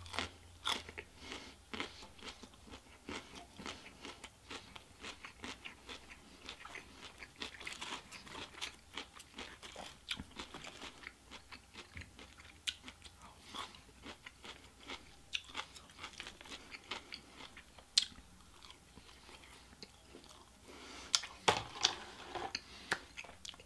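A man chewing a mouthful of Chinese takeout food, broccoli among it, close to the microphone: irregular wet clicks and smacks several times a second, with a few louder ones near the end.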